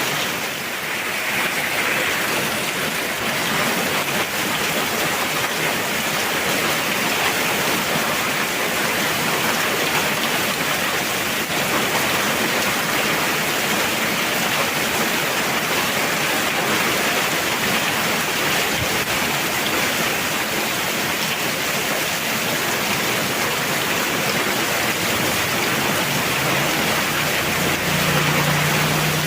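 Heavy rain falling: a steady, dense hiss with no let-up. A faint low hum comes in near the end.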